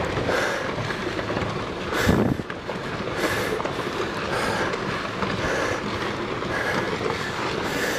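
Rockfall on a volcano slope: loose rocks tumbling and clattering down in a steady, dense rattle, with a heavier impact about two seconds in.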